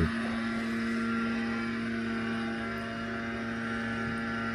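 Steady engine hum of snow-clearing machinery running at a constant pitch.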